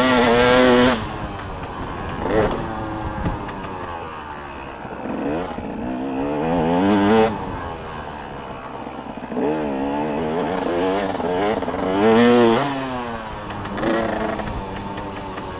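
Motocross dirt bikes revving hard on a track, their engine pitch repeatedly climbing and dropping through the gears as bikes pass. The loudest passes come right at the start, about seven seconds in and about twelve seconds in.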